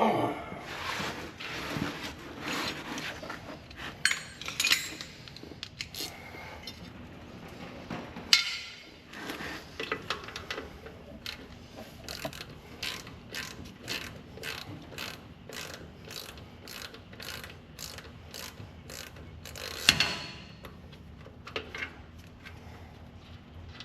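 Hand ratchet wrench clicking as it is worked in short strokes, with a few louder knocks of metal tools and parts. The clicks come in an even run of about two or three a second through the middle.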